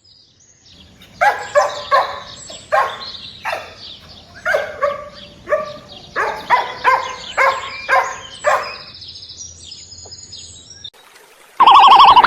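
An animal calling in a rapid series of about a dozen short, pitched calls, with faint high chirps near the end.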